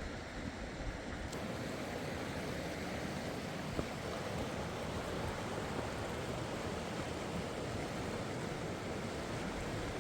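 Steady rush of fast-flowing river water, with a faint click near the middle.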